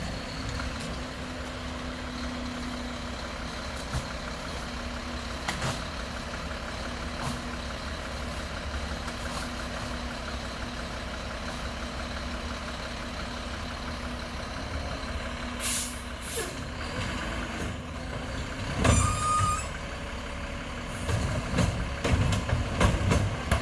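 Mack LEU garbage truck's engine running steadily, with a short air-brake hiss about two-thirds of the way through and a run of loud knocks and clatter near the end.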